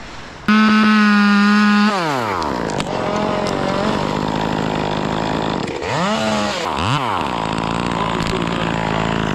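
Chainsaw held at full throttle from about half a second in, then the throttle is let off and the pitch falls away. It runs on with two quick revs, around six and seven seconds.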